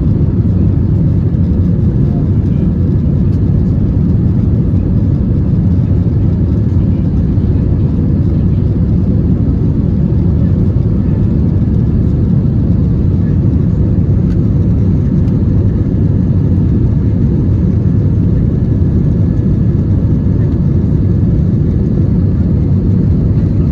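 Steady roar inside the cabin of an Airbus A321 in flight after takeoff: engine and airflow noise, mostly a deep rumble with a faint steady hum over it.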